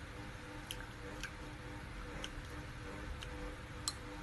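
Sparse, soft mouth clicks from chewing juicy pineapple, about one a second. A sharper click comes near the end as the metal fork goes into the mouth, over a steady faint hum.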